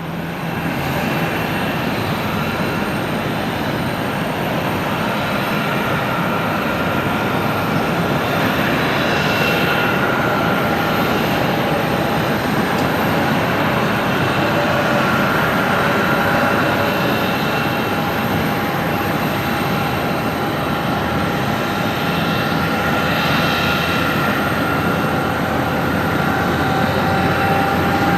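Boeing 737-300's CFM56-3 turbofan engines on landing approach: a steady jet rumble with a few whining tones that drift slowly in pitch, growing a little louder near the end.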